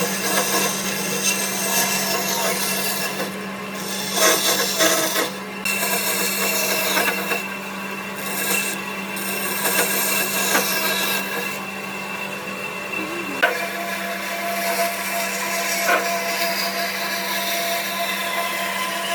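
Woodworking tool shaping wood: rasping and rubbing over a steady motor hum.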